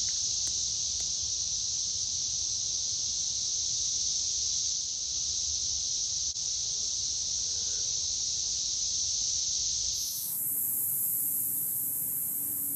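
Steady, dense buzzing chorus of insects. About ten seconds in it cuts abruptly to a higher-pitched, hissier insect chorus.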